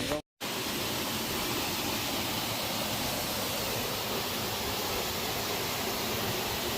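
Steady rush of a waterfall, an even hiss with no change, after a split-second dropout near the start.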